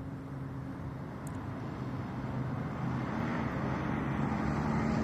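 Engine drone with a steady low hum over traffic noise, growing steadily louder as it approaches.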